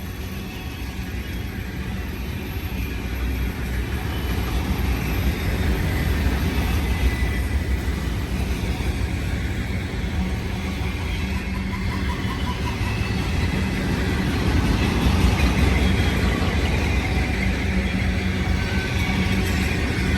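Freight train rolling past: a steady low rumble of wheels on rail with a low hum, growing gradually louder.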